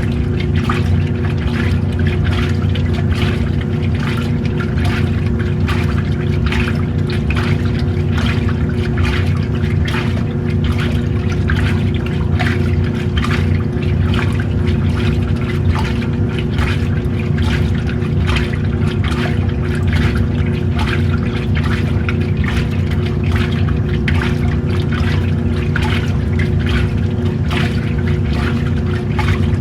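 Old-style washing machine running mid-wash: a steady motor hum under continuous irregular sloshing and splashing of water and clothes in the tub.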